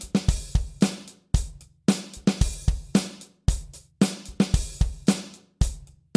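Drum kit playing a steady rock beat of bass drum, snare and hi-hat, the hi-hat opened with the bass drum on beat three of every second bar.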